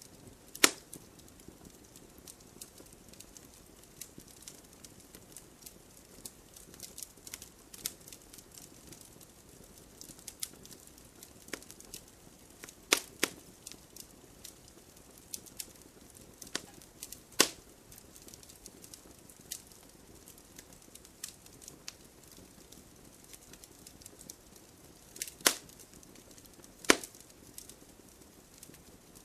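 Wood campfire crackling: a low steady hiss of burning with frequent small snaps and a few loud sharp pops scattered through, the loudest about 13, 17 and 25 seconds in.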